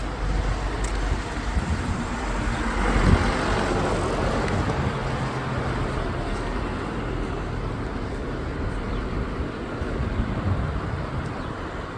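A motor vehicle passing, loudest about three seconds in, over a steady rushing noise.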